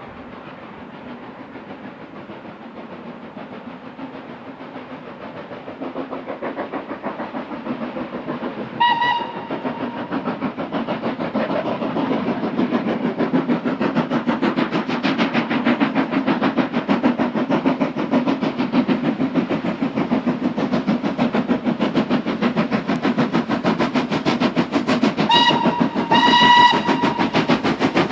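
Steam locomotive working hard, its rapid exhaust beats growing steadily louder as it approaches. A short whistle blast sounds about a third of the way in, and two more come near the end.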